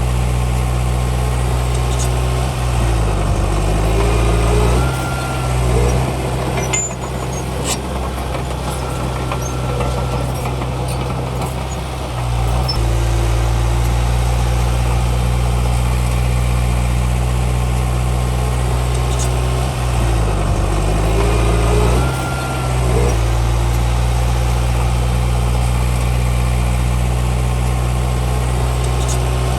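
Komatsu D31P bulldozer's diesel engine running steadily. Its pitch dips and recovers a few times, and there are a few sharp knocks about seven seconds in.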